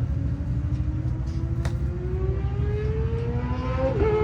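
A vehicle engine running with its pitch rising slowly and steadily, over a steady low rumble. A single faint click comes near the middle.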